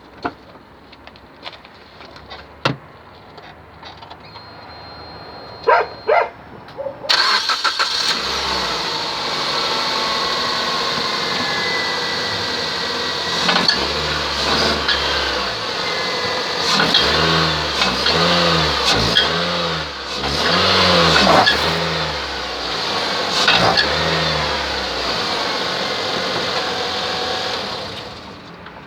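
Suzuki SX4 engine starting about a quarter of the way in, after a few sharp clicks, then running steadily. From about the middle, a series of repeated creaks from under the car, roughly one a second. This is the squeak from the underbody or suspension that appears when the car pulls away, cause unknown.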